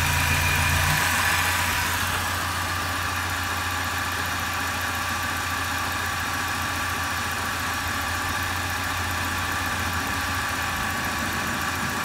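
Renault F4R 2.0-litre turbo petrol four-cylinder engine idling steadily under the open bonnet. Its tone shifts slightly about two seconds in, then runs evenly.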